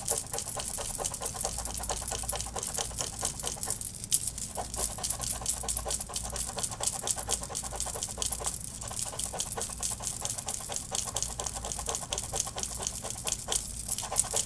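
Rapid, close-up scratching and rubbing through hair, many quick strokes a second, with brief pauses about every four to five seconds.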